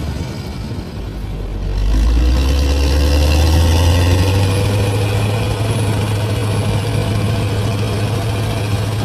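Large bulldozer's diesel engine working, rising in pitch and getting louder about two seconds in, then running steadily under load.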